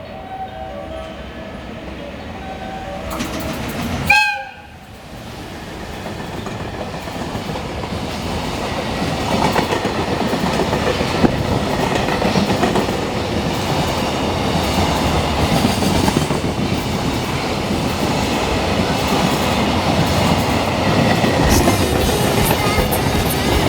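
A freight train sounds a short horn blast about four seconds in. It then comes past with a rumble and wheel clatter that grow steadily louder.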